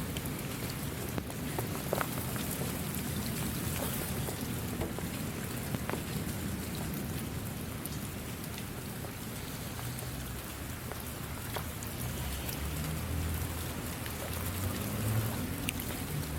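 Steady rain falling, with scattered individual drops ticking over an even hiss and a low rumble underneath that swells slightly near the end.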